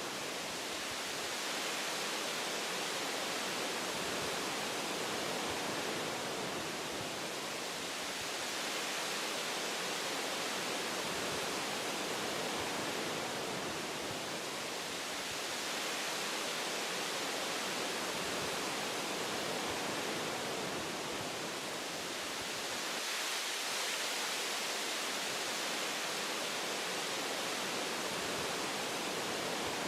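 Wind blowing through forest tree branches: a steady rushing hiss that swells and eases gently every several seconds.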